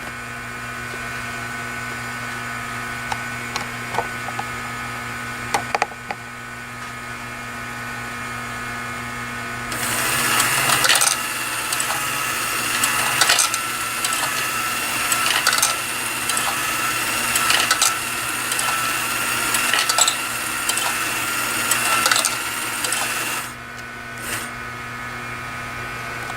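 Operating model train layout equipment running: a steady electric hum, joined about ten seconds in by louder mechanical whirring with sharp clicks roughly once a second, which stops a few seconds before the end.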